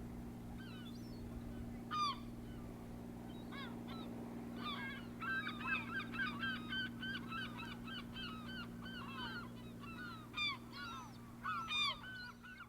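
A flock of geese honking, many short calls overlapping, busiest in the middle, over a steady low hum.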